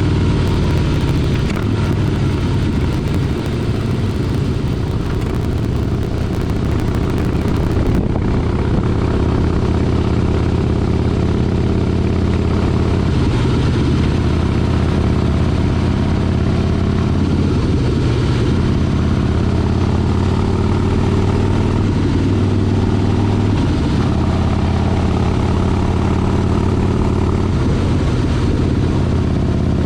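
Motorcycle engine running steadily during a ride, its pitch rising and falling a little with the throttle.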